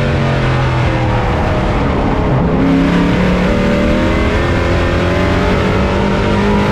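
Pro race truck engine at racing speed, heard on board; its pitch falls and then climbs again about two and a half seconds in, as the throttle is eased and reapplied through a turn.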